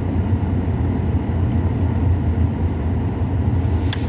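Freight train rolling past: a steady low rumble of wheels on rails, with a short sharp click near the end.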